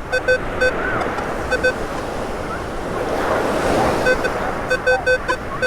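Metal detector sounding short, repeated beeps of the same pitch in quick clusters as the coil passes back and forth over a buried metal target. Surf washes in around the middle.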